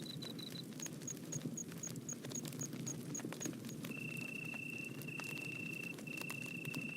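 Wood fire crackling with sharp pops over a low steady rustle, while insects call: a run of short high chirps about four a second, then from about four seconds in a long steady trill broken by brief gaps.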